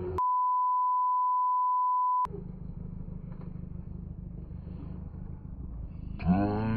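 A censor bleep, a steady single tone lasting about two seconds, replaces the sound near the start. After it a motorcycle engine runs with a low steady rumble, and near the end an engine note comes in and falls in pitch.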